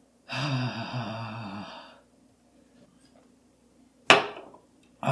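A man groans once, long and breathy, from the burn of extremely hot food. A short sharp knock follows near the end.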